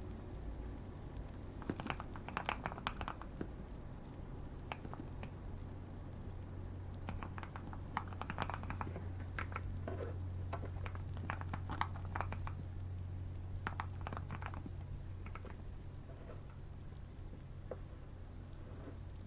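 Typing on a modded Keychron Q1 mechanical keyboard: quick keystroke clicks in several short flurries with pauses between, over a steady low hum.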